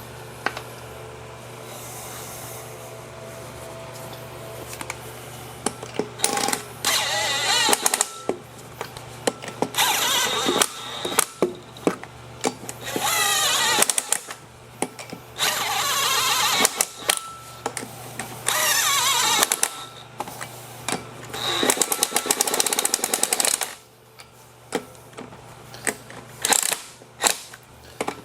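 Impact wrench run on the wheel's lug nuts in about six bursts of a second or two each, the motor pitch wavering within each burst, with clicks and clatter of tools and parts between the bursts.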